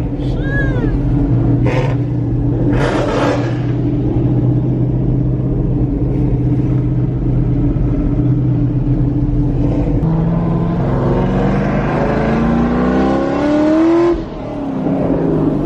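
Car engine running steadily under cruise, then accelerating with a rising pitch for about four seconds before it drops away suddenly near the end and settles back to a steady hum. Two short bursts of rushing noise come about two and three seconds in.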